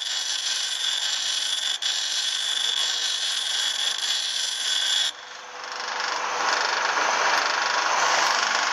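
Power tool sharpening the tip of a steel bolt to a point. A steady high whine runs until about five seconds in, where it cuts off suddenly, and a rougher grinding noise then builds toward the end.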